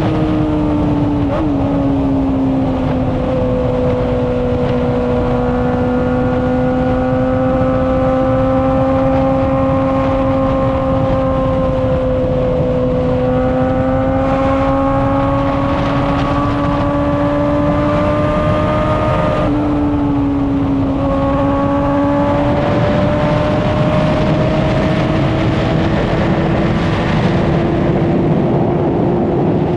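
Honda CBR600RR's inline-four engine pulling hard at high revs, its pitch dropping with a gear change about a second in, then slowly rising. The pitch breaks and shifts again about two-thirds through before climbing again, with a steady rush of wind noise underneath.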